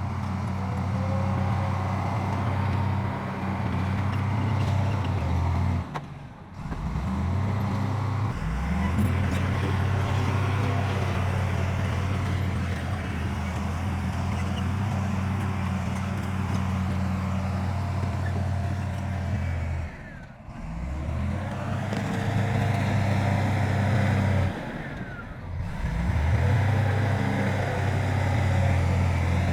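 Heavy construction machine's diesel engine running steadily with a deep, even hum. The engine sound drops out briefly about four times and comes straight back each time.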